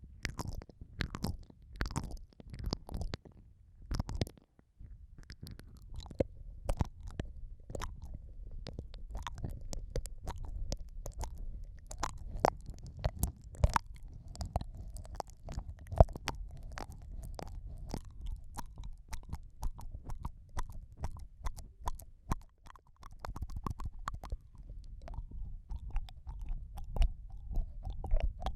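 Close, wet mouth sounds on an ear-shaped ASMR microphone: licking and nibbling with many quick sharp wet clicks over a steady low muffled rumble.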